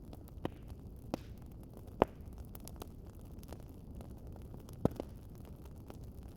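Wood fire crackling: a steady low rumble broken by a few sharp pops. The loudest pop comes about two seconds in, and two more land close together near the five-second mark.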